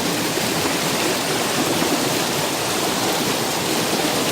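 Creek water flowing steadily, an even rushing hiss with no breaks.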